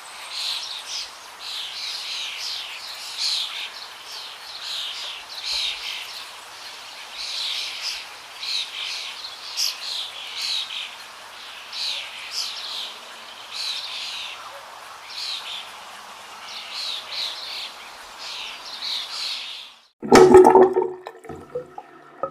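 Birds chirping over and over, short falling calls a little under a second apart, over a steady hiss. Near the end the chirping cuts off and a sudden loud burst of a different sound takes over.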